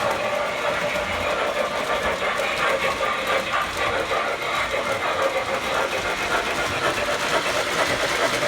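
MTH model trains running around the layout track: a steady whirring and rattling of locomotive motors and wheels on the rails.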